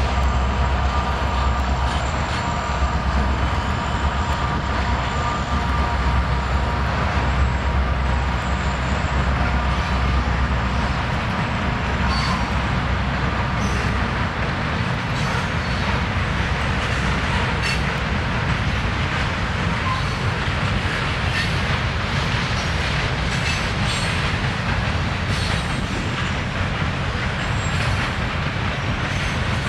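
A train running on the rails: steady rumble and wheel-on-rail noise. The deep low rumble eases off about ten seconds in, and scattered sharp clicks and faint squeals come through in the second half.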